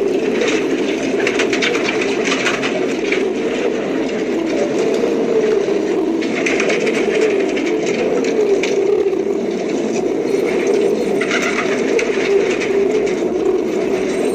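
Domestic pigeons cooing, a continuous low wavering coo with patches of higher scratchy noise at times.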